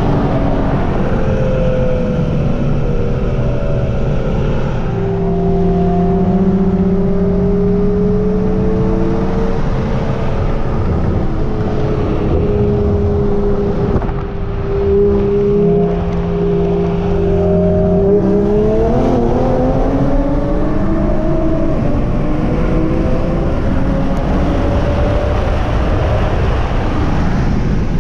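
Cabin sound of a 2018 Infiniti Q60 Red Sport's twin-turbo V6 cruising steadily with road and wind noise. About 18 seconds in, the engine pitch rises as the car accelerates hard from a 50 mph roll, then the engine tones fade under wind and tyre noise at speed.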